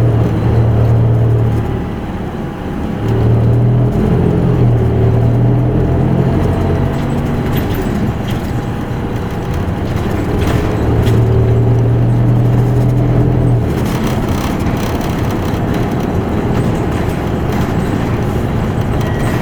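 Isuzu Erga Mio bus's four-cylinder diesel engine heard from inside the cabin, pulling under load in several spells with a deep drone. It eases off between them, and from about two-thirds of the way through it gives way to a steadier road and running noise.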